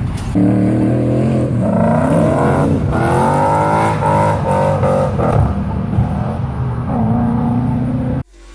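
Ford Mustang GT's 5.0 Coyote V8, tuned with ghost cams and breathing through an off-road X-pipe exhaust, at full throttle for a launch and burnout: the engine note jumps up about half a second in, then the revs climb and drop several times. The sound cuts off abruptly near the end.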